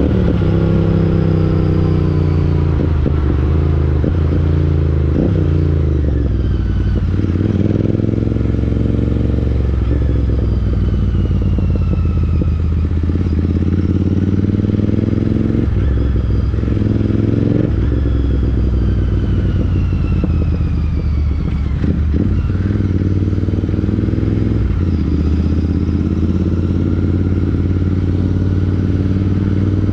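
Royal Enfield Interceptor 650's parallel-twin engine through an aftermarket Chris Michael exhaust, under way: the exhaust note climbs and drops in pitch several times as the bike accelerates and rolls off, with sudden breaks between the pulls.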